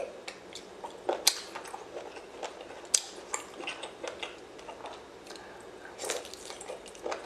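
Mouth sounds of biting and chewing a sauce-dipped octopus tentacle, with many irregular sharp clicks and smacks.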